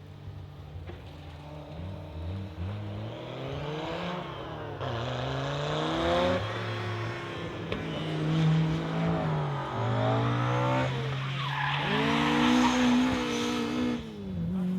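Rally car engine revving hard, its pitch climbing and dropping back several times as it shifts and lifts, growing louder as the car approaches.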